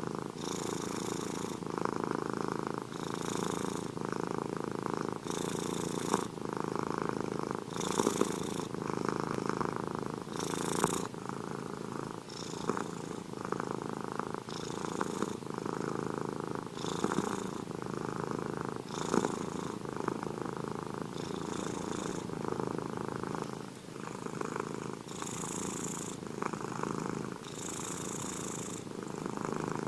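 Domestic cat purring close up, steady and continuous, its tone changing with each breath in and out about every two seconds.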